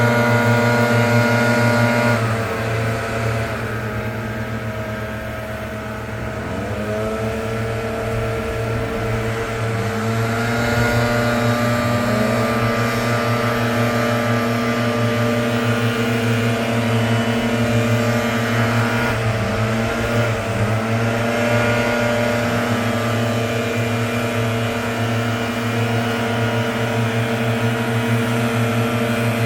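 Leaf blower engine running loud, throttle eased off about two seconds in and brought back up to full speed in a few steps, then briefly eased and raised again about twenty seconds in.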